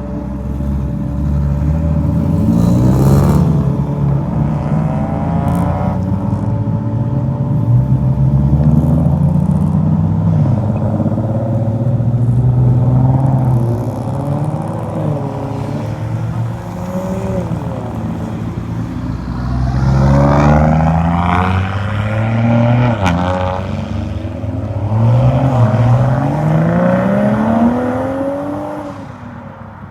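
Car engines revving and accelerating hard in a series of rising pulls, the pitch climbing again and again as cars launch and pull away; the loudest pulls come a few seconds in, about two-thirds through, and near the end.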